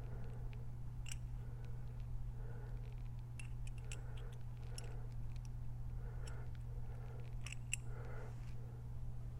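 Scattered light clicks and taps as the feed-side oil pump parts of a Harley Twin Cam engine are handled and fitted into place, over a steady low hum.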